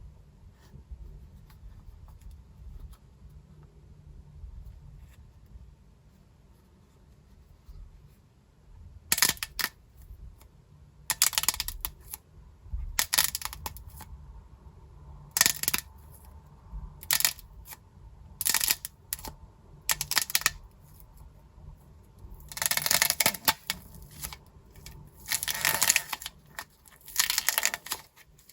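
Dried plaster clay crackling and crumbling as it is squeezed and broken, in short crisp bursts. A quiet stretch comes first, then cracks about a third of the way in, with longer, denser runs of cracking near the end.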